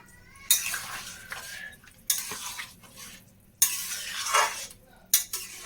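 A spatula stirring and scraping chili chicken around a cooking pan, in four separate strokes about a second and a half apart.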